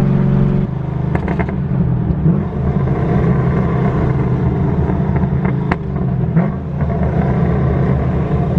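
Cammed, straight-piped LS3 V8 of a 2011 Camaro running loud, with no muffler. Its steady note breaks, under a second in, into a choppy, uneven lope, and a few sharp clicks sound over it.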